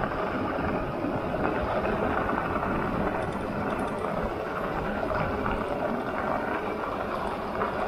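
Steady rushing noise of riding fat-tire e-bikes at speed: wind on the microphone mixed with tire road noise, with no sharp events.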